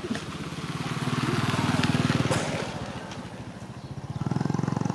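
Dog growling, a low pulsing rumble in two long swells with a short break near the end.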